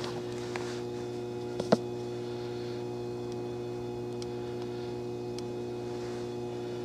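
Electrical transformer humming steadily, a low mains hum with a higher buzzing overtone. A sharp click cuts through once, about a second and a half in.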